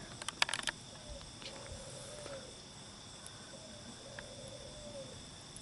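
Cricket chorus, a steady high-pitched chirring. A quick run of sharp clicks cuts in during the first second.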